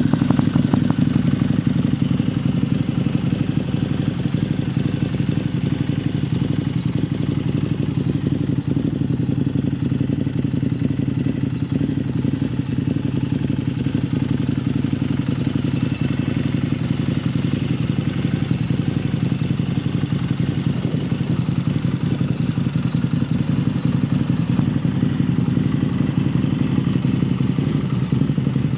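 Harley-Davidson V-Rod Muscle's liquid-cooled DOHC 1247 cc V-twin idling steadily through Vance and Hines dual straight pipes.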